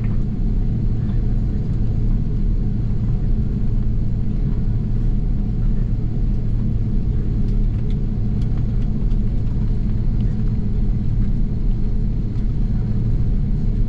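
Inside the cabin of an Airbus A330-300 before takeoff: a steady low rumble of the idling jet engines and cabin air system, with a constant hum.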